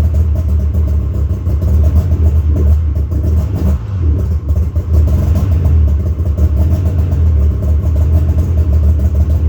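Two-stroke snowmobile engine running on choke just after a cold start, idling evenly with a brief dip in speed about four seconds in. It is still cold and slow to pick up.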